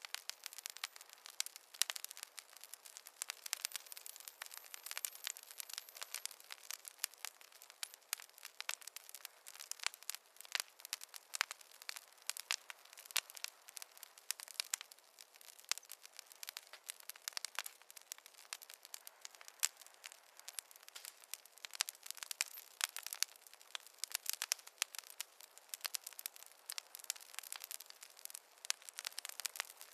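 Fire crackling in a fireplace: a dense, irregular run of sharp pops and snaps over a soft hiss.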